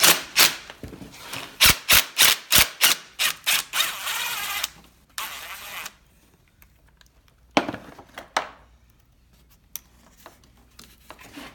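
A quick run of sharp clicks and knocks, about three a second for some three seconds, then a scraping rub and two more knocks near the middle: hands and tools working on the ATV's parts and wiring.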